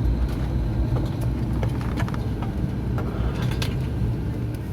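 Steady low rumble of an airliner cabin on the ground just after landing, with the engines still running and a few faint clicks.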